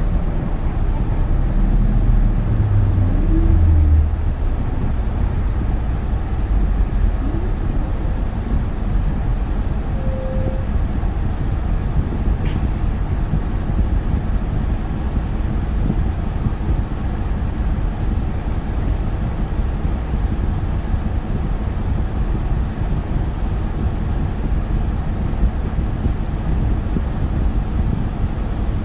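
Isuzu Erga city bus under way, its four-cylinder turbo-diesel engine and road noise heard from inside. The engine rises in pitch as the bus pulls away for about the first four seconds, then settles into a steady, lower drone while cruising.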